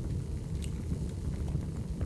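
Recorded log fire burning: a steady low rumble of flames with an occasional sharp wood crackle, one clear pop about a third of the way in.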